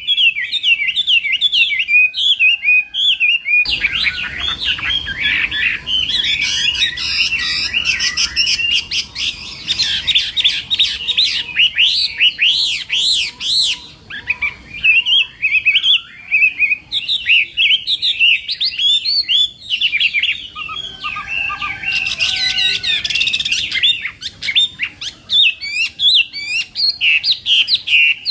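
Chinese hwamei (hoạ mi) singing a continuous, fast, varied song of rising and falling whistled notes, loud and with almost no pauses. Low background noise steps up about four seconds in.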